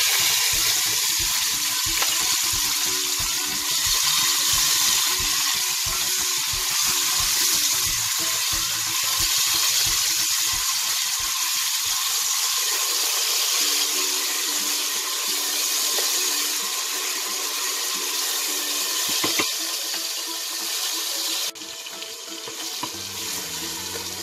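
Chopped tomatoes, onion and garlic sizzling steadily in hot oil in a stainless steel pot, stirred with a wooden spoon. The sizzle drops a little in level near the end.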